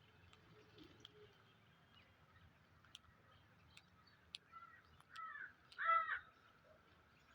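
A bird gives three short harsh calls about half a second apart, each louder than the last, near the end. Faint scattered clicks come before them.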